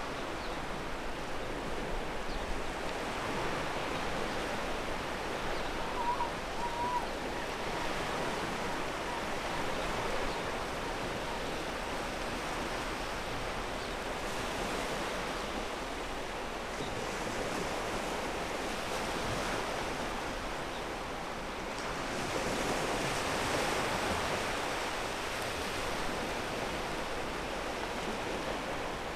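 Ocean waves surging and washing over a pebble beach: a steady rush of surf, with one larger wave swelling louder about three quarters of the way through.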